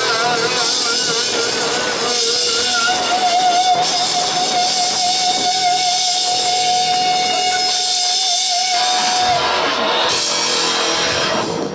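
Live rock music with guitar, a long held note with vibrato sustained until about nine seconds in, then the song winds down.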